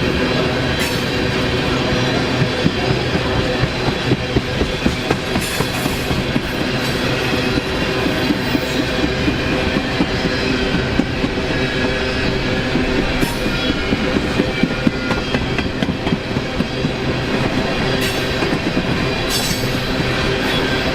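A train rolling past, its wheels clicking over the rail joints in clusters of quick beats.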